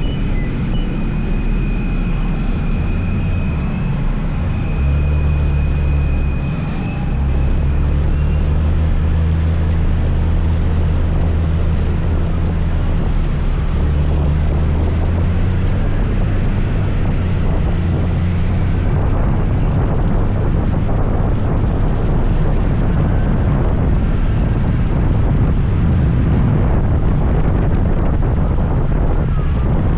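Scooter engine running at a steady pitch while riding, with wind on the microphone and road noise. After about eighteen seconds the engine tone gives way to a more even rush of wind and road noise.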